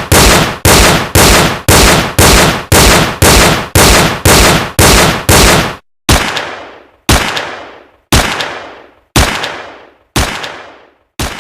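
Gunshot sound effects: a rapid string of shots at about three a second, then, about six seconds in, single shots about a second apart, each with a longer fading echo.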